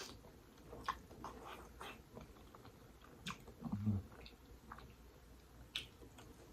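Close-up mouth sounds of a person eating langoustines: scattered wet smacks and clicks of chewing, with a short low 'mm' hum a little before the middle.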